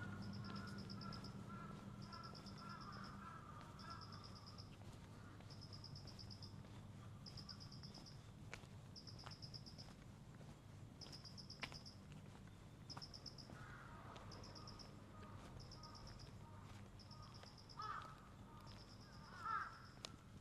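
Faint outdoor dawn ambience. An insect trills in a steady series of high, buzzing pulses about a second long, with short gaps between them. Crows caw in the distance near the start and again later, with two louder caws near the end, over a low hum that fades out after the first few seconds.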